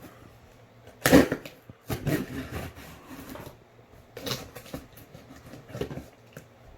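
A cardboard shipping box being handled and opened: several short scraping and tearing noises, the loudest about a second in.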